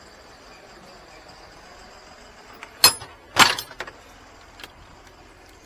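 Two loud bangs about half a second apart, the first with a brief ring, followed by a few light knocks: freight, a tractor part, being shifted by hand inside a semi-trailer.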